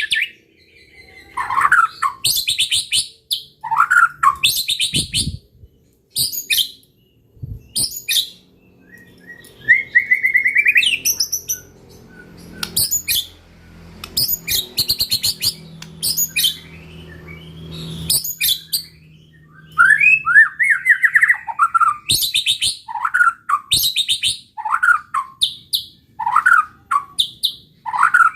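White-rumped shama (murai batu) in full, vigorous song: phrases of rapid chattering notes alternating with falling whistles, broken by short pauses.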